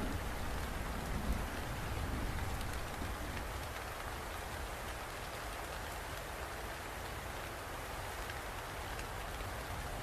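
Steady rainfall: an even hiss with faint scattered drop ticks over a deep rumble, which is a little stronger in the first second or so.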